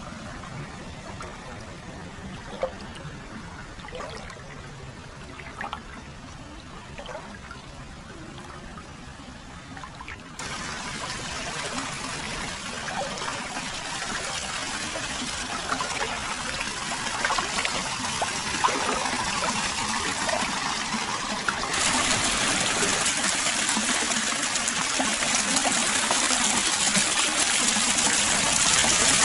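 Hot-spring source water pouring and trickling into an open-air foot bath, with small splashes. It turns suddenly louder about a third of the way in and again a little past two thirds.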